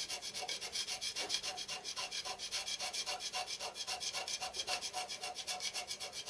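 Hand scraper shaving a mild steel plate in quick, even strokes, about four or five a second: hand scraping the plate flat to spread its bearing contact.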